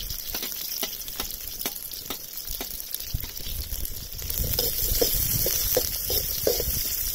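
Sliced onions, curry leaves and green chillies sizzling in hot oil in an aluminium pan as they go in, with short metal clicks of a fork scraping them off a steel tray into the pan.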